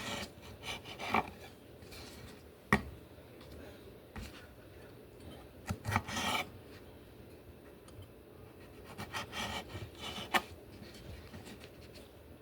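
Knife slicing tomatoes on a cutting board: irregular sharp taps of the blade hitting the board, with short scraping strokes in between.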